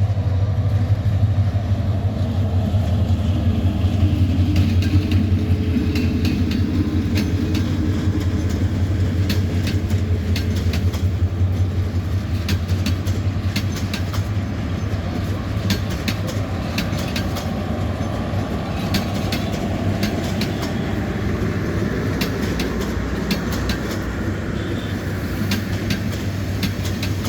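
Intercity passenger train running on the rails: a steady low rumble, with the wheels clicking over rail joints, the clicks thickest in the middle stretch.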